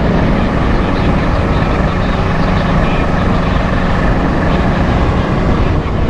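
Kawasaki H2's supercharged inline-four engine running at a steady cruise, holding an even note with no revving.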